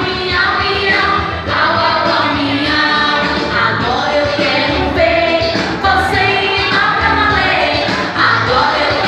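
Song with singing voices over instrumental backing music.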